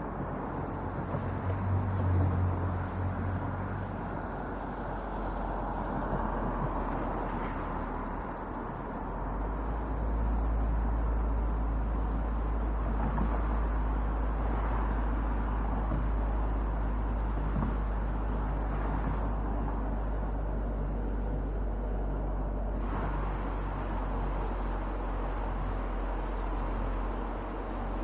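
Steady road noise of a car driving on an expressway, picked up by a roof-mounted camera: tyre rumble and rushing air, with the low rumble growing heavier about nine seconds in.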